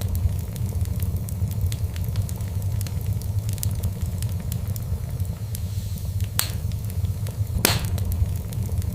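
Wood fire crackling steadily over a low rumble of the flames, with frequent small snaps and two louder pops near the end.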